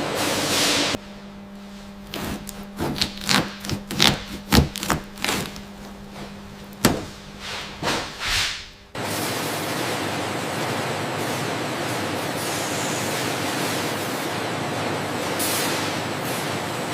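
Factory processing sounds: a steady low hum with irregular knocks and thuds, like hard objects being handled or chopped, then a change about nine seconds in to steady machinery noise.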